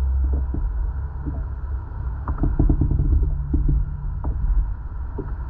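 Steady low rumble of wind buffeting the microphone, with scattered knocks and rattles of handling that are densest around the middle.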